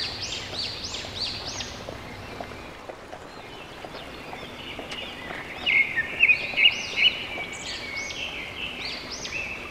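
Birds chirping: quick repeated high chirps over a steady hiss of outdoor background noise, the chirping thicker and louder from about halfway on.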